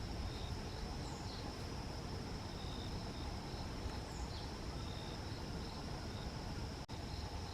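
Forest ambience: insects keeping up a steady high trill, with short bird chirps and a few quick falling bird calls over a low rumble. The sound drops out for an instant near the end.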